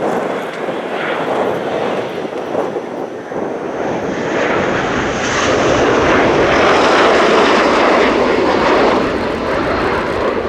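Military jet aircraft engine noise building as the jet draws closer, loudest about two-thirds of the way through and then easing, with a high turbine whine over the rush.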